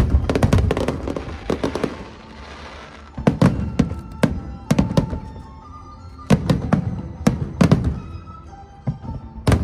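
Fireworks exploding overhead in rapid volleys of sharp bangs, with a crackling stretch about a second in. Music plays underneath.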